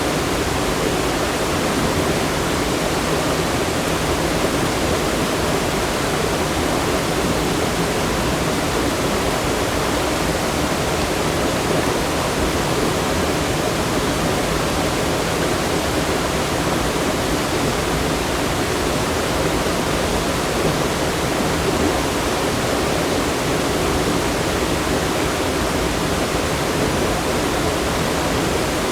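Rushing water, a steady unbroken rush with nothing else over it.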